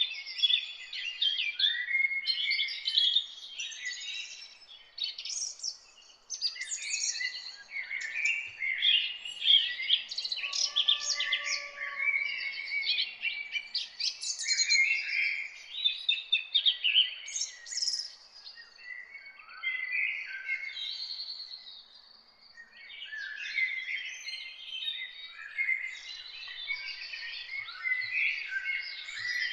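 Chorus of several songbirds singing at once: dense, overlapping high chirps, whistles and trills with brief gaps, over a faint background hiss.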